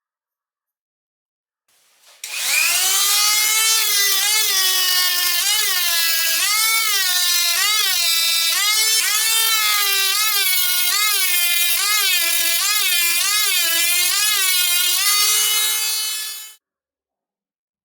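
The freshly rewound armature of a Hammer UDD950A hammer drill's motor spinning at high speed while it is balanced: a loud, steady whine. The pitch wavers up and down about once or twice a second. It starts about two seconds in and cuts off suddenly about a second before the end.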